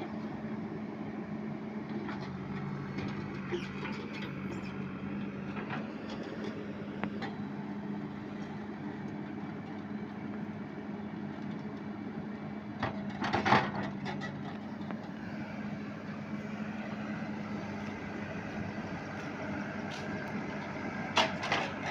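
ACE Phantom 4×4 backhoe loader's diesel engine running steadily, with a few clanks and rattles, the loudest about halfway through and another near the end.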